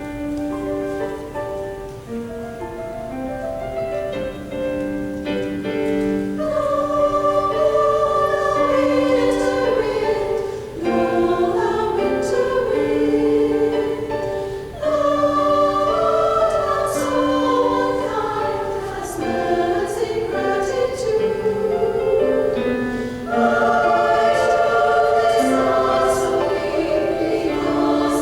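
Choir singing a choral piece with accompaniment, soft at first and growing fuller and louder about six seconds in, in phrases with short breaks between them.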